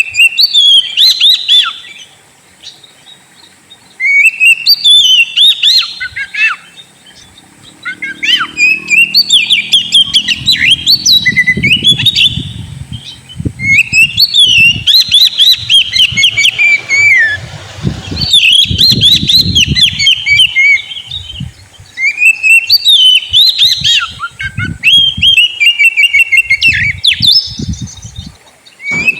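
Oriental magpie-robin (kacer) singing loud, varied whistled song phrases in repeated bouts of about two to four seconds, with short pauses between them.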